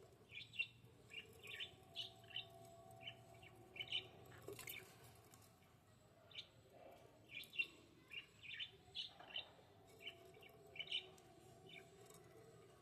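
Budgerigars chirping: many short, quick chirps coming in irregular clusters, with a couple of brief lulls.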